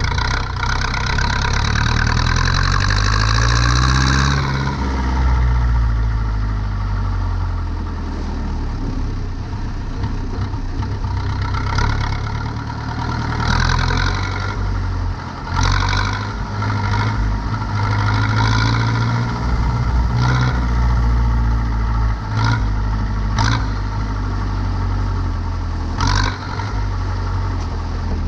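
Zetor 7245 tractor's four-cylinder diesel engine running under load, its speed shifting during the first few seconds. Sharp clattering knocks sound now and then in the second half.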